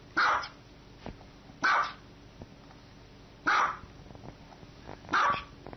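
A dog barking: four single, evenly spaced barks, one about every second and a half.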